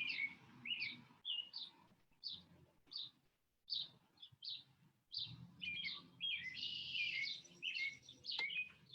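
Songbirds singing: many short chirps and warbled phrases, with a longer run of song in the second half.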